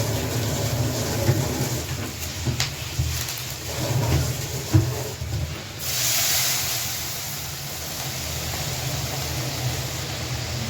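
A few clinks and knocks of a utensil on a pan, then about six seconds in a sudden loud sizzle as food goes into hot oil, settling into steady frying.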